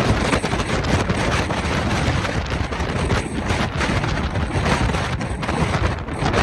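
Strong gusting wind blowing straight onto a phone's microphone: a loud, continuous buffeting rumble with rapid crackling.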